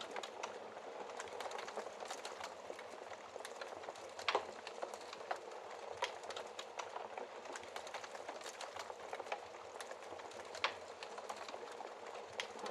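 Wood fire burning in a fireplace: a steady hiss with frequent small crackles and a few louder pops, the loudest about a third of the way in.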